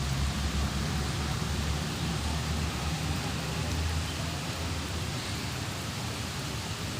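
Light drizzle falling on tree and plant leaves, a steady even hiss, under a low rumble that eases a little after the middle.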